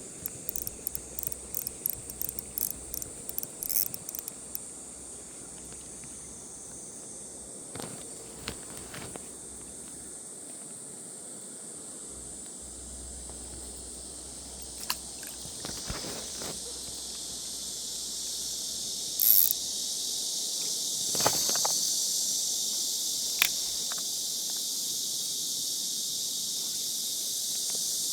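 A chorus of insects droning steadily at a high pitch, growing louder through the second half. Fast, light ticking in the first few seconds and a few scattered knocks.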